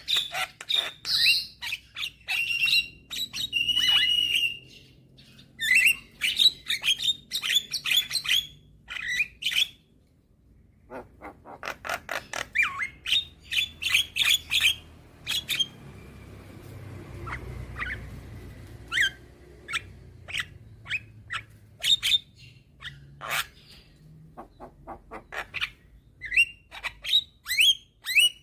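Young Javan myna singing: rapid runs of harsh squawks, clicks and short whistled notes, in bursts with a short pause about ten seconds in.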